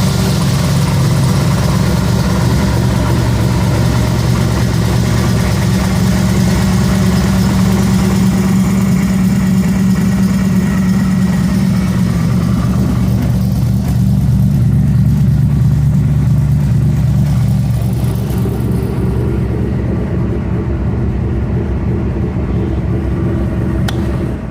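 A 560 hp 408 Windsor V8 on 48 IDA Weber carburettors idling steadily just after a dead-cold start, the throttle left untouched. Its note shifts slightly partway through, and the engine is switched off at the end.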